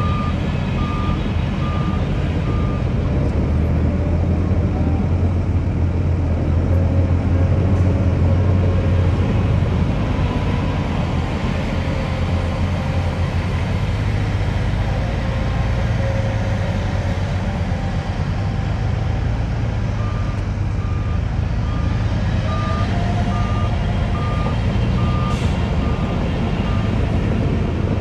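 Heavy diesel earthmoving machine running steadily, with its reversing alarm beeping about twice a second at the start and again for several seconds near the end.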